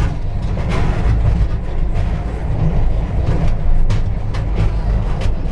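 Underground electric train of the New Athos cave railway running through its rock tunnel: a loud, steady deep rumble with a few faint clicks.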